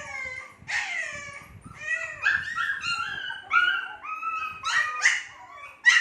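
Shih Tzu puppies, about two months old, whimpering and yipping: high-pitched cries that overlap, with a few longer falling whines at first and then a quick run of short yips in the second half.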